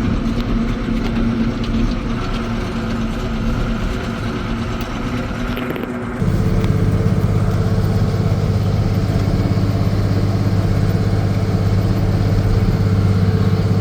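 Diesel engine of a 2290 farm tractor running steadily, likely pulling a disc harrow through a field. About six seconds in, the drone steps up abruptly, becoming louder and deeper with the high end cut away.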